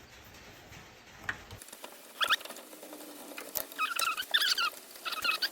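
Short, high-pitched metal squeaks in quick runs as a screw is driven into the small engine's carburettor mounting, with a few sharp clicks; the owner thinks the screw may be cross-threaded.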